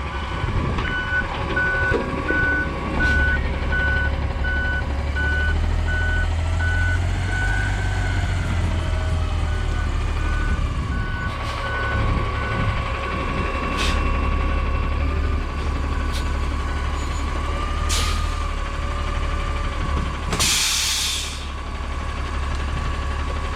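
A trash truck's diesel engine runs as the truck is driven onto a trailer, its note rising and falling. The reverse alarm beeps about once a second through the first half, then stops. A few knocks sound, and about twenty seconds in there is a short burst of air hiss from the air brakes.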